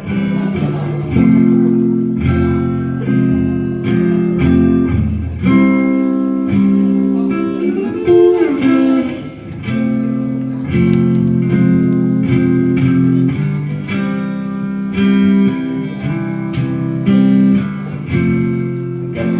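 Live band playing an instrumental passage between sung lines: guitar chords ringing and changing every second or so over bass notes.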